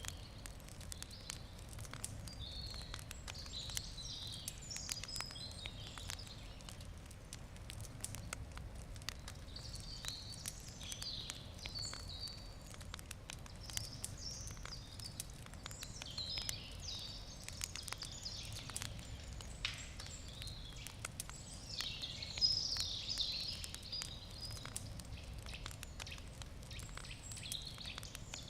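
Wood fire crackling, with irregular small pops and snaps throughout. Wild birds sing in short phrases every few seconds over it, loudest a little past the middle.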